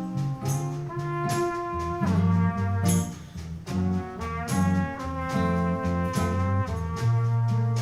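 Live small jazz combo playing an instrumental break: a trumpet plays a melody of held notes over a walking guitar bass line and steady percussion hits.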